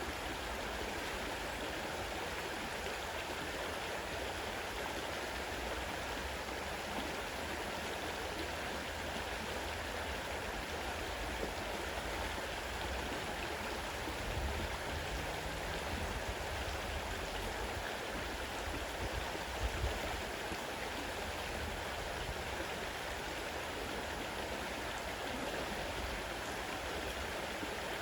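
Fast-running river: a steady rush of flowing water, with a brief low bump about twenty seconds in.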